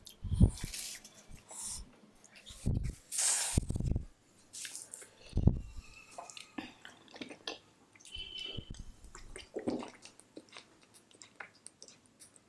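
Close-miked mouth sounds of eating: chewing and wet smacking, with a few soft thumps. Near the end a drink is taken from a plastic bottle.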